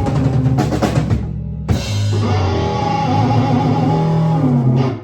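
Rock band playing with drums and guitar: a brief break about a second and a half in, then a held closing chord that cuts off suddenly near the end.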